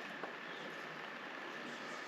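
Quiet outdoor bush ambience: a steady high-pitched drone with a few faint bird-like chirps and one soft click about a quarter second in.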